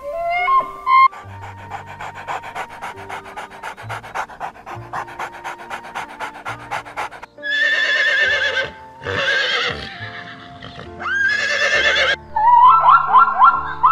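A dog panting quickly for several seconds, then a horse whinnying three times in loud, wavering calls. Near the end comes a fast run of short rising yelps, with soft music underneath throughout.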